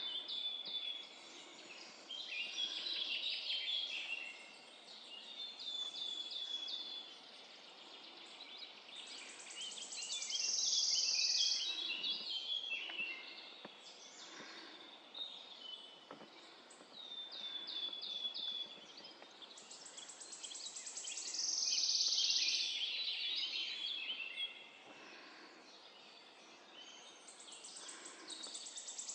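Several songbirds singing in a woodland chorus: many short, high chirping phrases overlap. One bird repeats a loud song about every nine seconds, a fast high trill running into a brighter closing phrase.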